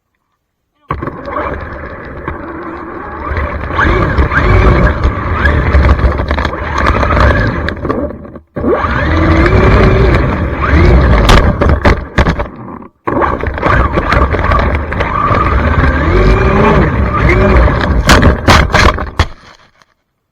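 Traxxas Mini XRT RC truck driving hard: its electric motor whine rises and falls in pitch with the throttle over a heavy rumble of tyres and wind, heard close up. The sound cuts off abruptly twice and starts again.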